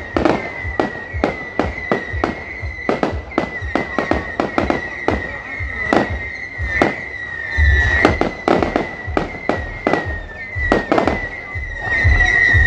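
Fireworks display: a rapid, irregular string of bangs and crackles, several a second, with deeper booms about eight seconds in and again near the end. A steady high-pitched tone runs underneath.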